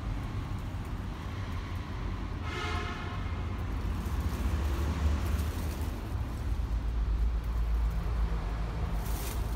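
Heavy dump truck's diesel engine running with a low rumble that swells slightly partway through, a short horn toot about two and a half seconds in, and a brief hiss near the end.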